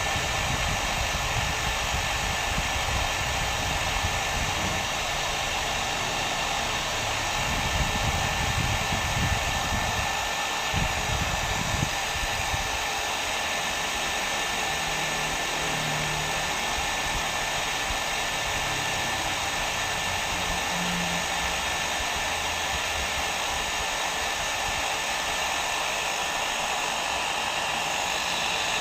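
Hair dryer blowing steadily: a continuous rush of air with a faint steady whine from the motor. Its low rumble wavers during the first dozen seconds, then settles.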